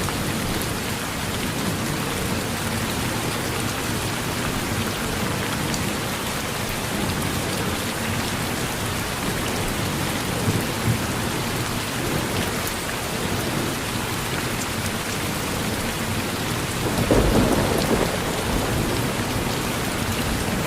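Steady rain falling, with a low rumble of distant thunder swelling near the end.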